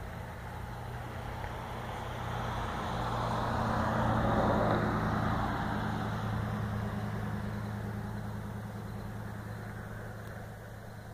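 A low, steady droning hum of several tones, with a rushing swell that builds to a peak about four seconds in and then fades; it is one of the unexplained 'sky trumpet' sounds.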